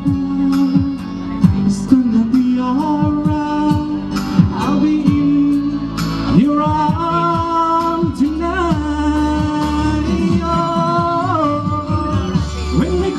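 Band music with a singer: a voice holding and bending long notes over drums and a bass line.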